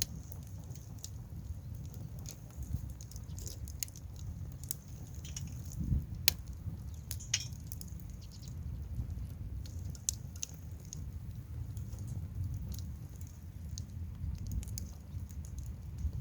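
Wood campfire crackling: irregular sharp pops and snaps over a steady low rumble, with one louder snap about six seconds in.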